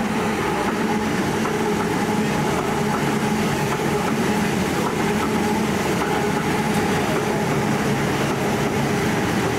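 Sydney Trains electric suburban passenger train running close by: a steady, loud mechanical noise with a continuous hum.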